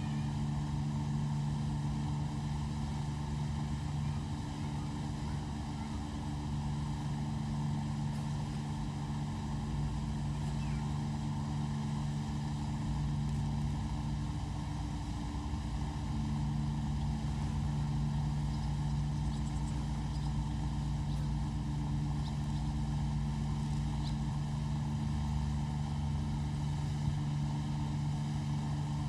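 A steady low mechanical hum, like an engine running at constant speed, over a low rumble.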